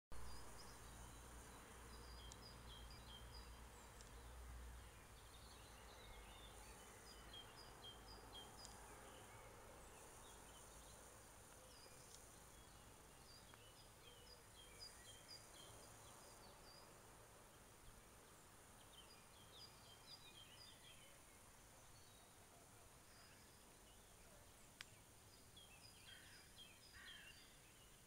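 Faint woodland birdsong: groups of short, high chirps repeated every few seconds over a quiet background hiss. A low rumble sits under the first few seconds.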